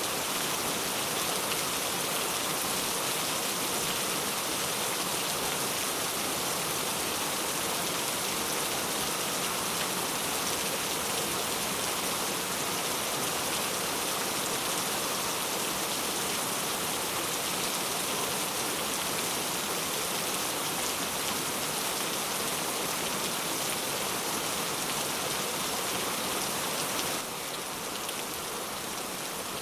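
Heavy rain falling steadily, a dense even hiss of drops on surfaces. It drops slightly in level near the end.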